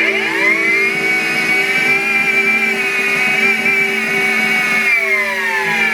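Miele Complete C3 cylinder vacuum cleaner's motor spinning up with a rising whine as it starts, then running steadily at high suction. Its pitch slides down near the end as the motor slows.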